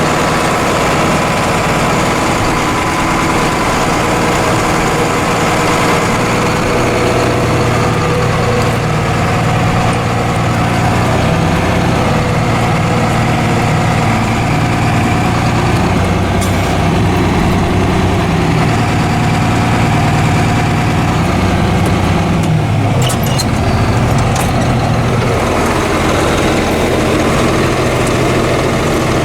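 Heavy diesel engine of farm harvest machinery running steadily, its low note shifting a little about two-thirds of the way through, with a few short clicks at that point.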